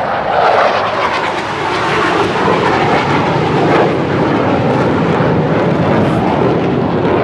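A loud, steady rushing roar, heavy in the low and middle range, with no distinct strokes or tones.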